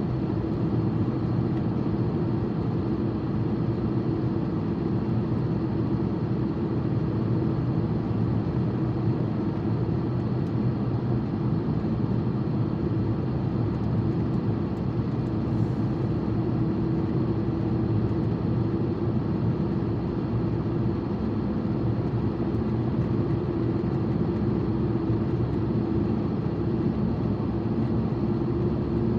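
Steady car engine and road noise heard from inside the cabin while driving: an unchanging low hum with a steady drone.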